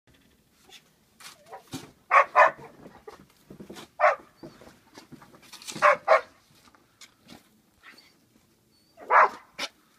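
A dog barking: two quick barks about two seconds in, one near four seconds, two more near six seconds and a last one near nine seconds.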